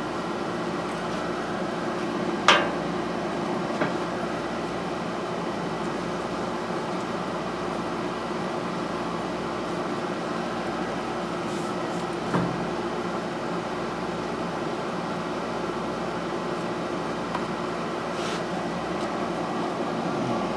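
Steady background machine hum with several fixed tones. A sharp click comes about two and a half seconds in, with a couple of fainter knocks later.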